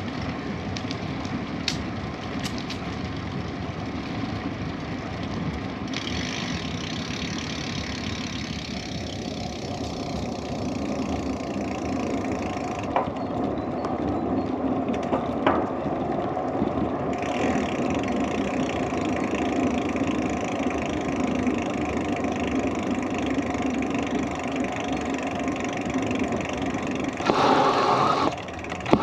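Bicycle tyres rolling over a rough track, a steady crunching rumble with a few sharp clicks, briefly louder near the end.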